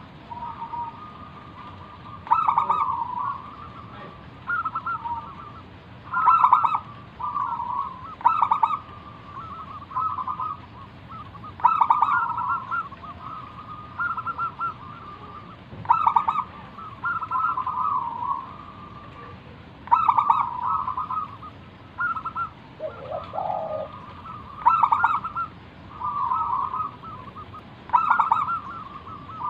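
Zebra dove (perkutut) singing: phrases of quick, stuttering cooing notes, repeated every couple of seconds. A brief lower call comes in about three-quarters of the way through.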